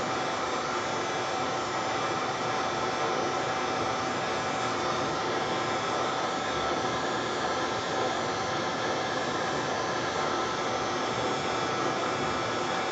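Small hair dryer used as a paint blower, running steadily at constant speed with a faint whine over its airflow noise.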